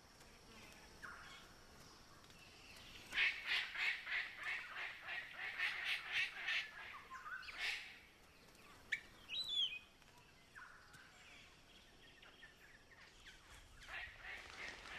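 Birds calling: a run of rapid, harsh, quacking notes at about three a second, then a short whistled call, and more harsh notes beginning near the end.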